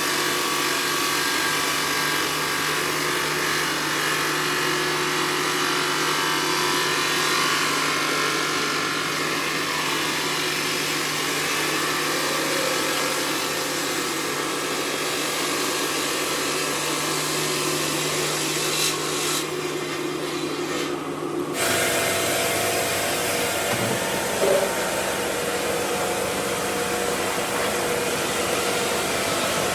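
Stone-processing machinery at work on marble, a steady power-tool noise over a constant low hum. The sound changes abruptly about two-thirds of the way in.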